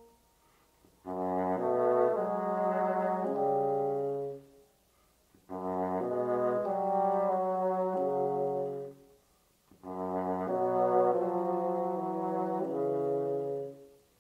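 Classical bassoon music: three short phrases of low, sustained notes moving stepwise, separated by brief pauses.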